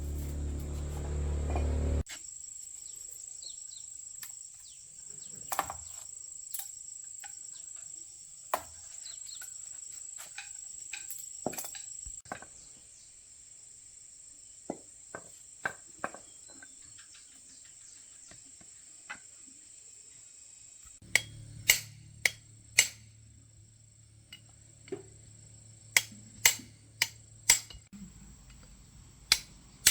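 Scattered sharp clicks and taps of hand tools on metal parts, over a steady high-pitched insect-like chirring; a low hum comes in about two-thirds of the way through.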